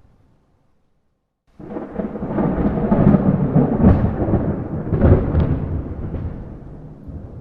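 Thunder over rain: after a brief drop to silence about a second in, a loud rolling thunderclap starts abruptly, rumbles with a few sharper cracks in the middle, and fades back toward steady rain near the end.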